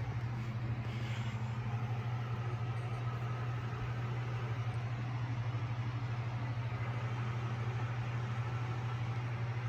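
Cat purring steadily, close to the microphone: a continuous low, rapidly pulsing rumble.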